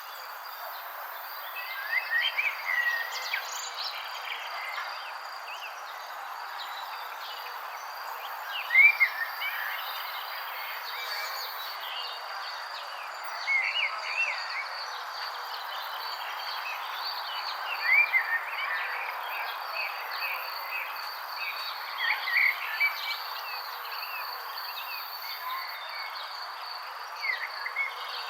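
Birds chirping in short clusters of quick, arching notes every few seconds, the loudest about nine seconds in, over a steady high insect trill and a constant background hiss.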